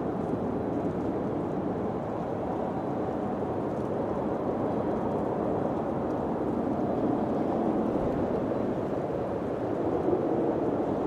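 Steady wind blowing, a rushing noise that swells gently a few times without ever dying away.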